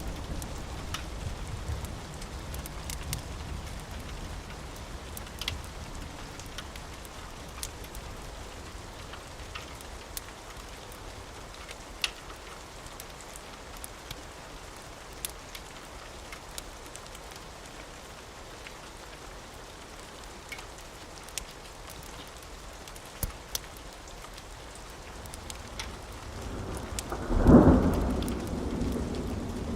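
Steady rain with scattered sharp drop ticks, as a low rumble of thunder dies away over the first few seconds. About two seconds before the end a loud clap of thunder breaks in and rumbles on.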